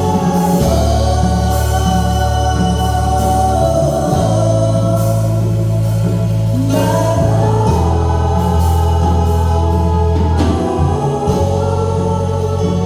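Choir singing a gospel hymn over sustained organ or keyboard bass chords that change every few seconds.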